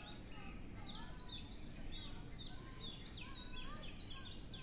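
Several small birds chirping busily, with short quick rising and falling chirps overlapping one another, over a steady low background rumble.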